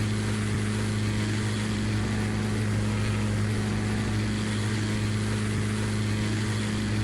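Cessna 402's twin piston engines and propellers droning steadily, an even low hum with no change in pitch.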